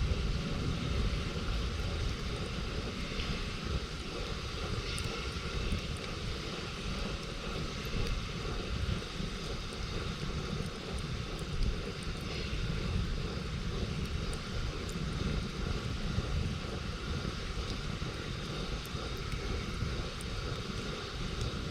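Wood campfire burning, faint scattered crackles over a steady low rumble.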